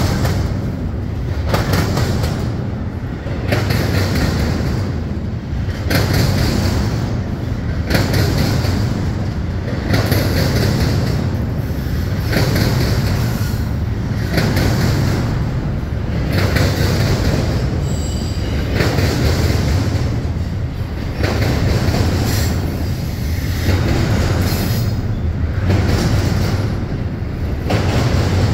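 Double-stack intermodal freight train rolling past close by: a steady rumble of well cars with regular clanks every second or two as the wheel sets cross the diamond. Brief high-pitched wheel squeals come about two-thirds of the way through and again near the end.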